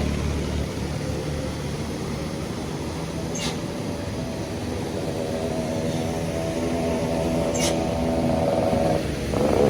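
Diesel engine of a Mitsubishi Fuso tandem-axle dump truck running steadily, with two short clicks. Just before the end the engine note shifts higher and gets louder.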